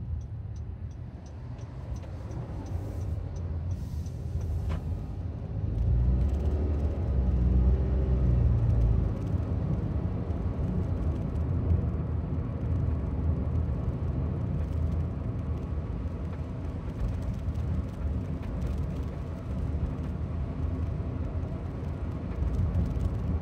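Cabin noise of a Honda N-BOX Custom driving, a steady low road and engine rumble that swells for a few seconds about a quarter of the way in. Light knocking rattles come from the right rear near the sliding door, caused by a loose clip on the right stop lamp.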